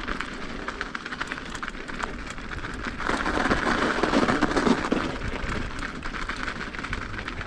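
Mountain bike rolling over an icy, snowy trail: tyre noise with many sharp clicks and rattles, louder for a couple of seconds midway.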